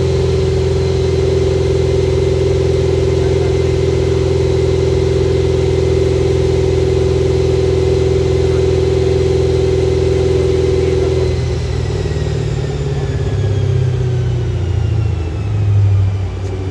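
Car engine held at a steady high rpm, as on a chassis dyno, with a steady whine over the engine note. About eleven seconds in the revs fall away and the pitch drops.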